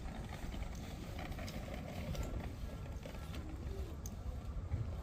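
Odakyu Line electric commuter train running: a steady low rumble with scattered light clicks and creaks.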